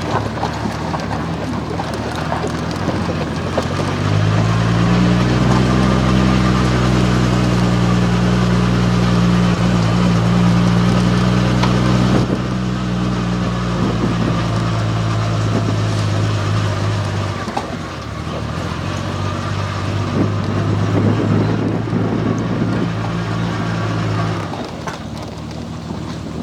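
Triumph car engine running under way. The engine note swells about four seconds in and holds steady, eases off around two-thirds of the way through, picks up again, and drops away near the end.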